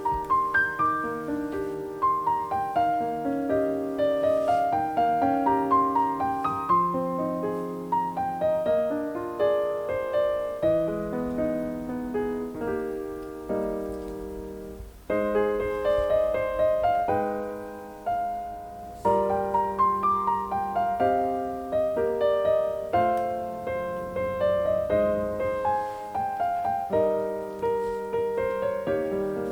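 Background piano music: a gentle melody of struck notes that ring out and fade.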